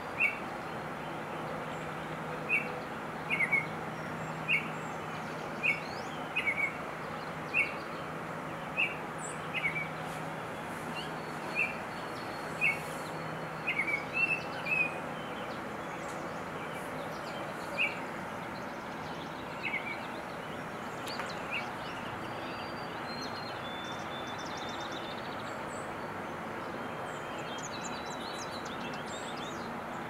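A bird calling with short, sharp chirps repeated about once a second, over steady outdoor background noise. The chirps stop about two-thirds of the way in, and fainter, higher calls follow.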